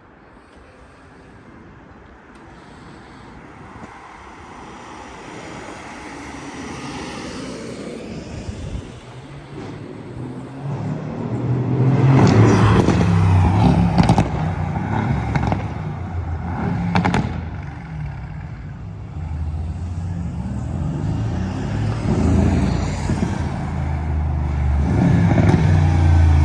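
Mercedes-AMG GT with an aftermarket sports exhaust being driven, the exhaust note growing steadily louder and rising and falling with the revs. A few sharp cracks come through around the middle.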